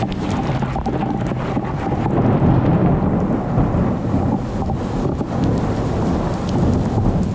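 Thunder rumbling over steady rain, the rumble swelling a couple of seconds in.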